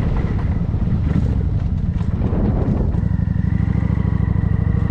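Motorcycle engine running, with a steady low pulsing exhaust note. A faint steady whine joins it about three seconds in.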